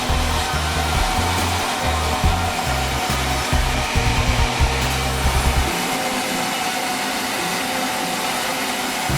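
Sawmill machinery running with a steady hum and rushing noise. Background music with a bass line is underneath, and the bass drops out about two-thirds of the way through.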